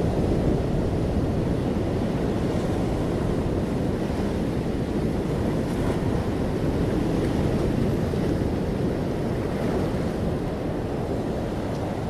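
Ocean waves washing onto a beach: a continuous, low wash of surf that swells slightly in loudness near the start and again a little past the middle, easing off toward the end.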